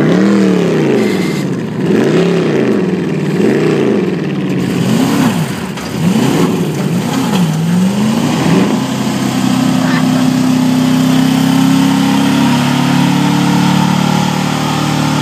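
Chevy pickup engine under load in a truck pull, revved up and down about once a second for the first eight seconds, then held at high, steady revs.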